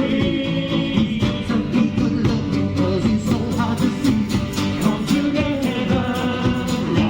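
Live band playing a rock-pop song with a steady drum beat and singing.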